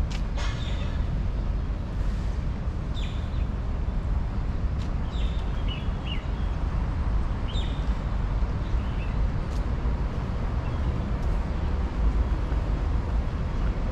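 Short bird chirps every couple of seconds over a steady low outdoor rumble, with a few faint clicks.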